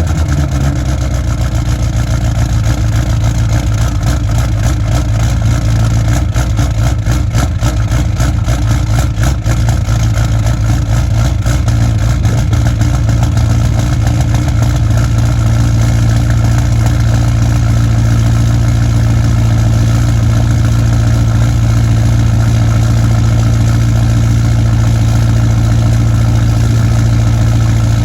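Ford 6.0 Powerstroke V8 turbodiesel with a 4-inch straight pipe idling just after a cold start, uneven for the first ten seconds or so, then settling into a steady idle. The owner says the truck has a slight misfire.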